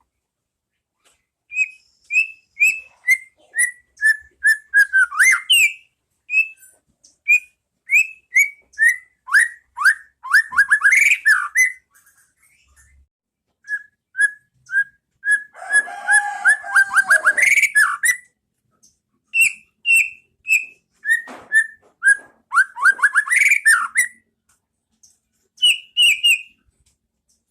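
White-rumped shama (murai batu) singing: several phrases of clear whistled notes, each repeated in quick series and speeding into a fast run of slurred notes, with short pauses between phrases.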